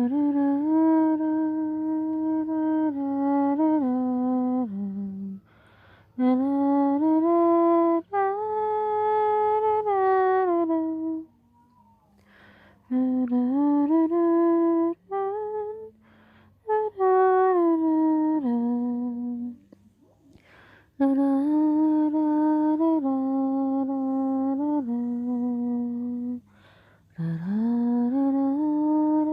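A person humming a slow lullaby without words: long held notes in short phrases, with brief pauses for breath between them.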